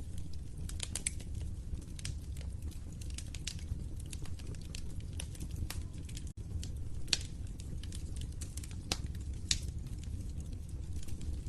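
Wood fire crackling in a fireplace: a steady low rumble of burning with irregular sharp pops and snaps, a few louder ones, and a momentary gap in the sound a little past halfway.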